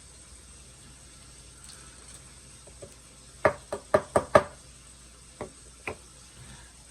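Light knocks of a hard object on a hard surface: five quick ones in about a second, then two more, spaced apart.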